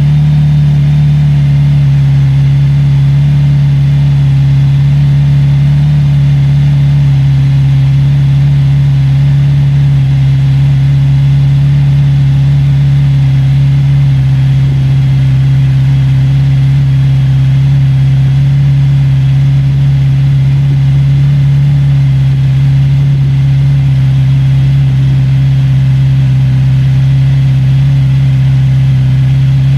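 Kawasaki Z900RS 50th Anniversary's inline-four engine and exhaust idling steadily during a cold-start warm-up. The note holds a low, even hum throughout.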